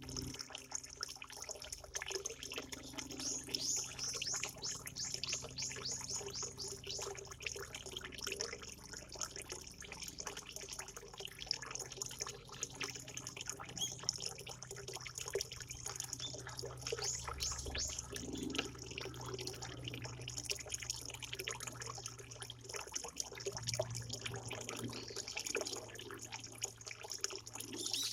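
Water trickling and dripping steadily, with small birds chirping in quick, rapid runs of thin high calls over it.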